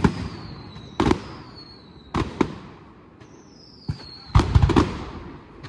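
Fireworks display: separate sharp bangs of bursting shells, then a rapid cluster of crackling bursts about four and a half seconds in, with high whistles sliding down in pitch between the bangs.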